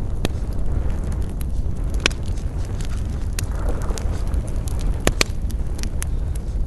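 Campfire crackling, with several sharp pops from the burning wood over a steady low rumble.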